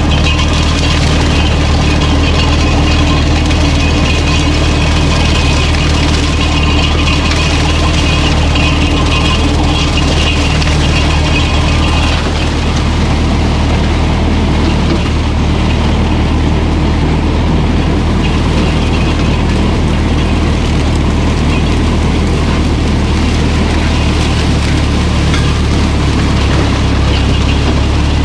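An engine running steadily at an even speed, with a mechanical rattle over it.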